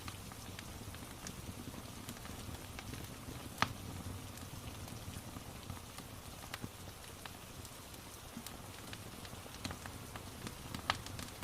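Wood fire crackling with scattered pops, two louder than the rest about three and a half seconds in and near the end, over a steady hiss of rain.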